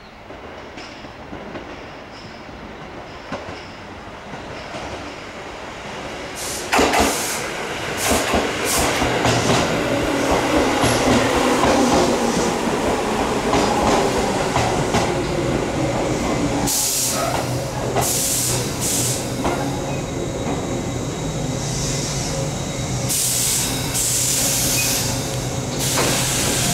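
Tobu 8000 series electric train moving at the station platform. It grows much louder about seven seconds in and stays loud, with several sharp high-pitched bursts over a steady low running hum.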